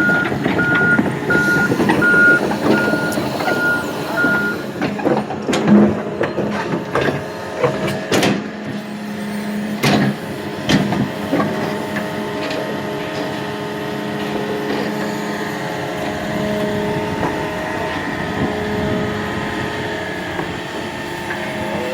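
Backup alarm on a piece of heavy construction equipment beeping steadily for about the first four and a half seconds, over a diesel engine running, with a few sharp clanks mid-way.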